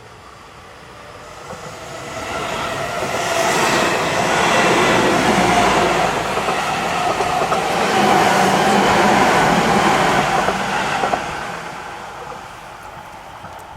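Seibu 20000 series electric commuter train going by on the rails: the sound builds over a couple of seconds, stays loud for about seven seconds, then fades away.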